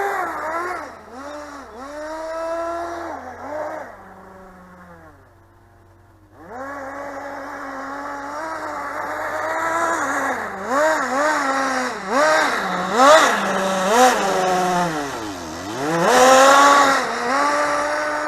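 Small nitro engine of a Kyosho Nitro Blizzard RC model, revving up and down over and over as it is driven. It drops away and goes quiet for about two seconds around four seconds in, then picks up again, and dips low once more before a high rev near the end.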